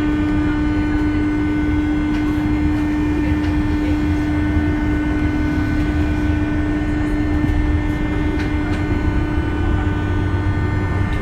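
JR West 201 series electric commuter train running, heard from inside the car: steady rumbling running noise with a constant humming tone that dips slightly about halfway through.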